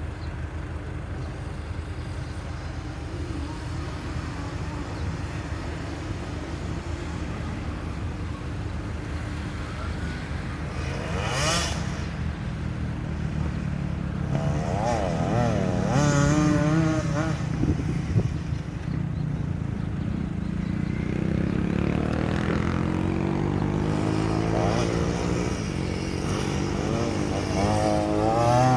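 Motocross dirt bike engine running and revving, with wavering bursts of revs and a long rising climb in pitch over the latter part as it accelerates.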